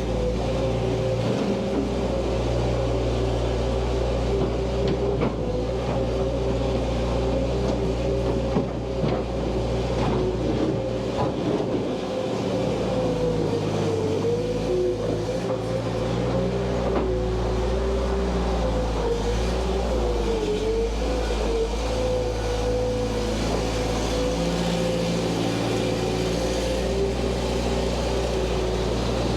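Skid steer engine running steadily with a held whine over a low hum. The pitch sags briefly twice around the middle as the machine takes load cleaning out a barn pen.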